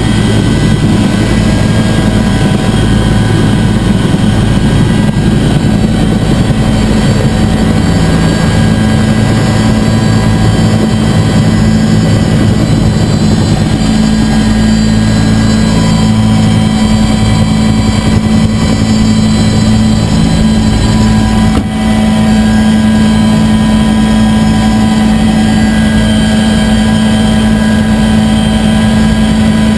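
Bell UH-1 Huey helicopter running in flight, a loud, steady drone of engine and rotor with a strong low hum and fainter high whining tones above it.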